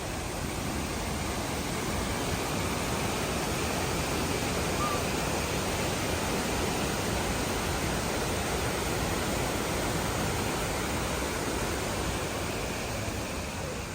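Steady rushing of a waterfall: an even wash of water noise that holds at one level throughout.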